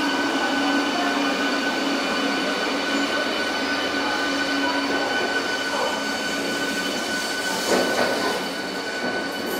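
MEMU electric multiple unit train pulling slowly out of the platform, its running noise carrying steady high whining tones. A lower hum fades out around the middle, and a single sharp knock comes about eight seconds in.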